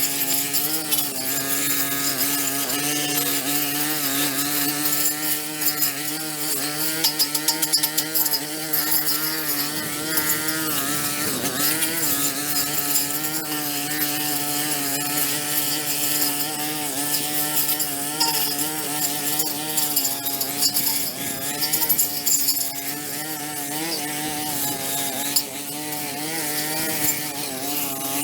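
Small petrol-engine power tool, such as a string trimmer or edger, running steadily at high speed. Its pitch wavers and dips briefly under load about eleven seconds in. A dense gritty hiss with fine ticks rides over it, like material being cut and scraped.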